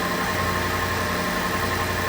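Porsche 911 flat-six engine idling steadily on a cold start.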